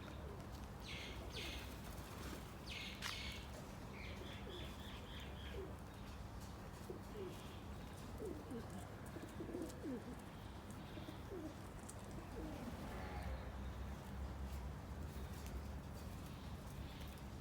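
Birds calling: short high chirps in the first few seconds, then lower gliding calls repeated in the middle, over a steady low hum.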